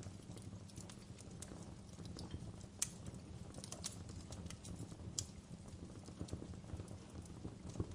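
Fireplace fire crackling: irregular sharp pops and snaps over a low, steady rumble, the loudest snap a little under three seconds in.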